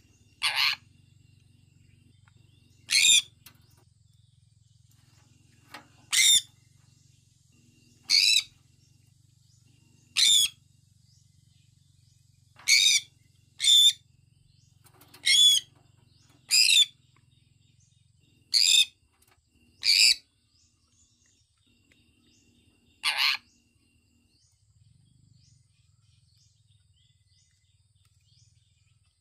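Sun conure giving about a dozen short, high-pitched calls, one every second or two, which stop several seconds before the end.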